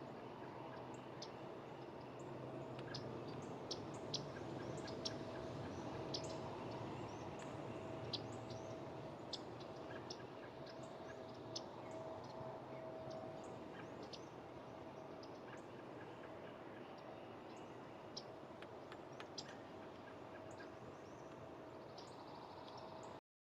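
Outdoor ambience with many short, high bird chirps scattered irregularly over a steady low background hum. The sound cuts off abruptly just before the end.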